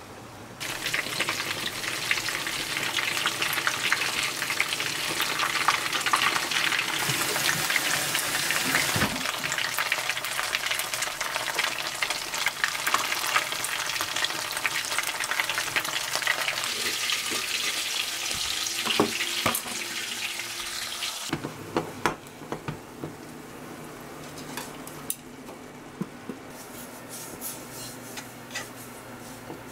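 Battered squid strips frying in shallow oil in a nonstick frying pan, with a steady loud sizzle. About 21 s in the sizzling stops abruptly. After that, chopsticks give scattered clicks and scrapes against the pan as flour is stirred in to soak up the leftover oil.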